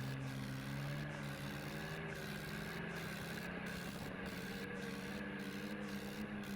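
Swaraj 855 tractor's diesel engine running at a steady speed, its pitch wavering slightly.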